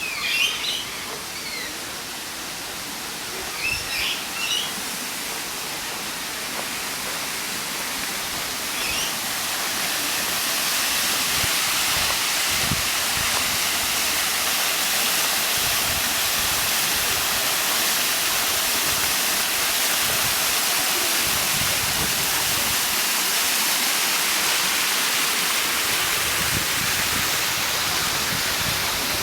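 A steady rushing hiss, growing louder about ten seconds in, with a few short bird chirps in the first ten seconds.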